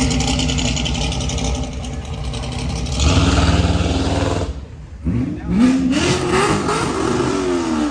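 Car engine running loudly, then dropping away briefly before revving up in a climbing sweep about five seconds in, holding high and falling back near the end.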